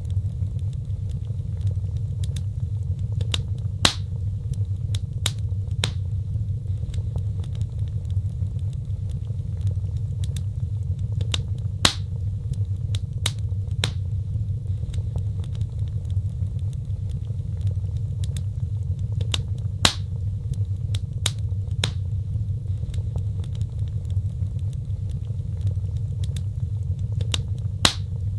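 Fireplace fire burning with a steady low rumble and irregular sharp crackles and pops. Four louder pops come at even spacing, about every eight seconds.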